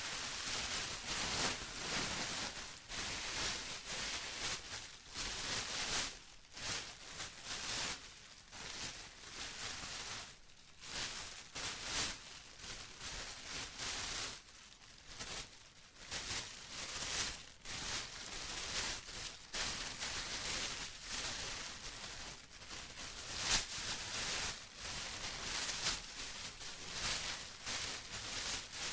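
Plastic rustling and crinkling in irregular, uneven bursts with brief quieter gaps.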